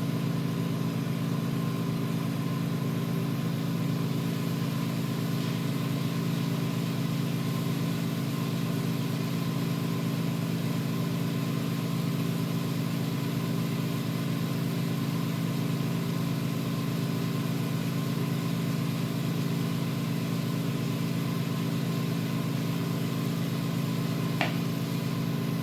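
Steady, unchanging hum of running neon-shop equipment, a motor-driven blower or pump droning with a few fixed tones. A faint click comes near the end.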